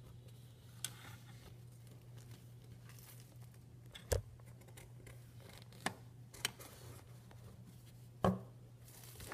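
Paper and craft items being handled: five scattered short taps and clicks with faint rustling over a steady low hum.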